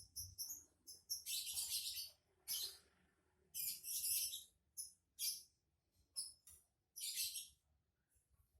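Lovebird singing in quick, high-pitched chattering phrases: short chirps mixed with buzzy trills of up to about a second, with brief gaps between them.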